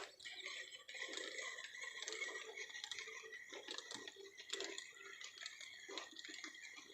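Faint, irregular ticking and clicking over a steady high-pitched hum.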